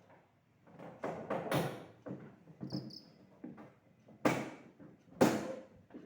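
Irregular handling noise: rustling, scraping and knocks, the loudest a little past one second, at about four seconds and at about five seconds, with two short high squeaks just before three seconds.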